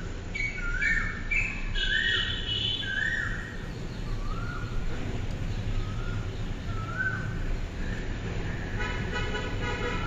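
Birds calling in trees: one bird repeats a short note that rises and then holds level, about once a second, eight or so times, while higher chirps from another bird come in over the first few seconds. A steady low rumble runs underneath.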